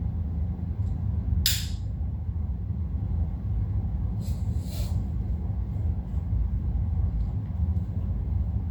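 Plastic vacuum wand being pushed and twisted onto the hose of a backpack vacuum: two short scraping rubs, about a second and a half in and again around four and a half seconds, over a steady low rumble of handling noise.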